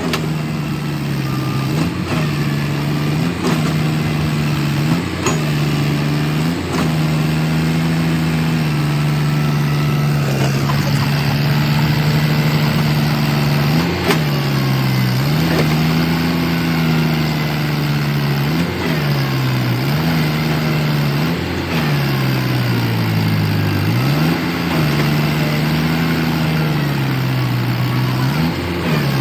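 Farmtrac tractor's diesel engine working hard under load while pulling a trolley, its pitch repeatedly sagging and recovering every second or two as the load bogs it down.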